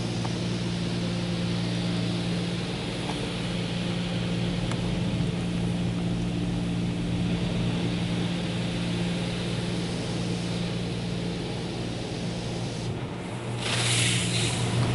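Mark VII ChoiceWash XT touchless car wash gantry spraying the car, heard from inside the cabin as a steady hiss of water over a low, steady hum. Near the end the spray drops away for a moment, then comes back louder.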